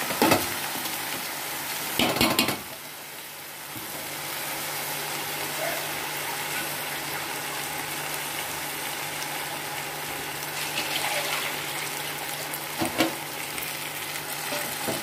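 Soaked rice and moong dal sizzling in hot mustard oil in a large metal pot while a spoon stirs them. The spoon scrapes and knocks loudly against the pot right at the start, about two seconds in, and again near the end.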